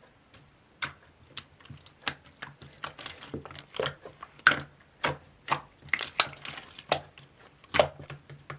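Clear slime being handled, making a string of irregular sticky clicks and pops that start about a second in and last almost to the end.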